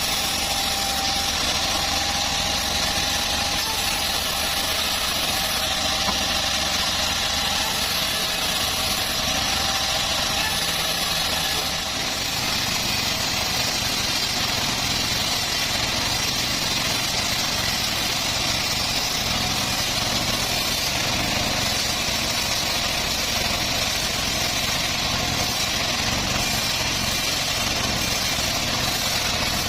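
Homemade bandsaw sawmill running steadily while sawing a teak log, with a brief dip in level about twelve seconds in.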